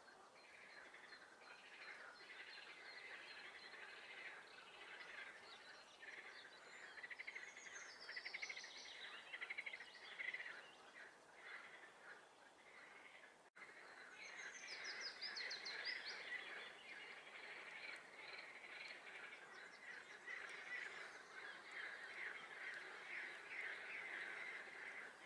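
A faint chorus of frogs calling together in a swamp, a dense, pulsing din throughout. Songbirds sing higher trills over it, in two spells about a third of the way in and just past the middle. The sound drops out for an instant just past halfway.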